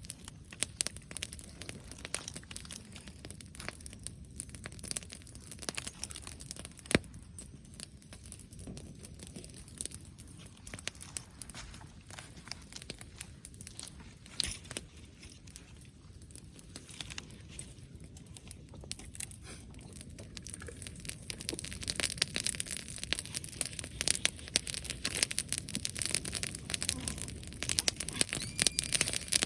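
Dry vegetation crackling and crunching in a dense, irregular patter of small snaps, with one sharper crack about seven seconds in and busier, louder crackling over the last third.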